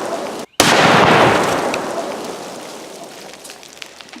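Tannerite explosion: a sudden loud blast about half a second in, its rumble and echo fading away over the next three seconds. Before it, the tail of an earlier blast cuts off abruptly.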